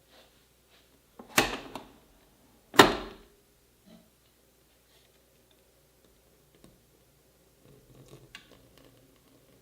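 Two sharp knocks of hard objects, about a second and a half apart, each ringing briefly, followed by a few faint clicks and handling sounds near the end.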